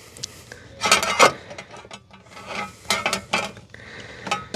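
Hands working the fuel pump's wiring plug and plastic clips: a scattering of short clicks, rattles and rubs.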